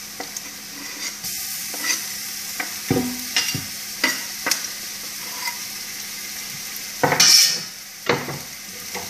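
Diced onions sizzling steadily in hot olive oil in a large stainless steel pot, with a chef's knife repeatedly scraping and tapping on a cutting board as minced garlic is pushed into the pot. A brief louder rush of noise comes about seven seconds in.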